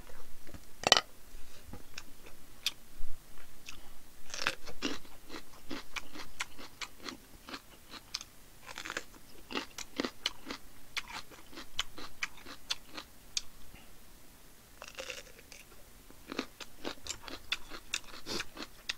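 A person chewing and crunching crisp vegetables close to the microphone, with many sharp crunches that come thick and fast near the end.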